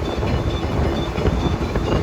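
Wind buffeting the microphone over the steady running of a boat's Gladiator 9.9 outboard motor under way, a dense low rumble with gusty variations.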